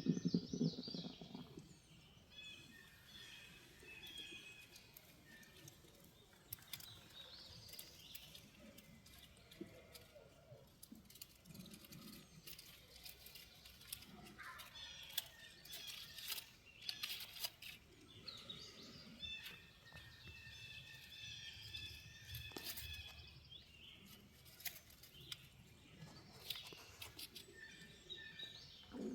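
Small songbirds chirping and trilling in quiet woodland, with scattered light ticks and rustles.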